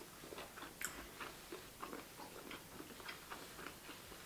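Quiet chewing and eating noises from sushi and rice, with a string of small, soft clicks.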